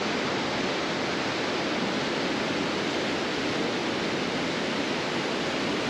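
Steady rushing water: an even, unbroken hiss with little low rumble and no change in level.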